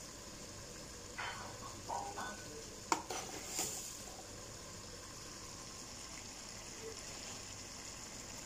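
Chicken and tomatoes frying in a pot on a gas stove, a faint steady sizzle. A few light clinks and knocks come about one to four seconds in, the sharpest a single click near three seconds.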